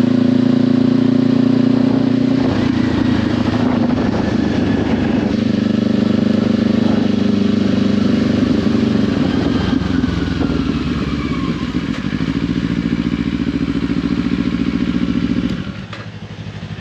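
Kawasaki Ninja 500's parallel-twin engine running through a LeoVince slip-on exhaust while riding. It sounds rougher and more broken from about two to five seconds in, then steadies. It drops noticeably in level about a second before the end.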